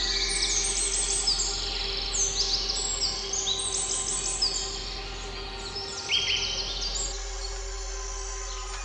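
Birds chirping in quick, high trills over soft background music of steady held tones; the birdsong stops about seven seconds in, leaving the music.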